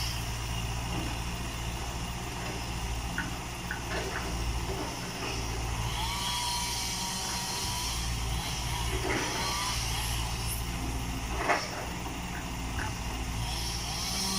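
Hitachi EX120-1 excavator's diesel engine running steadily under work, with a few short knocks, the loudest about eleven seconds in, and a brief whine about six seconds in.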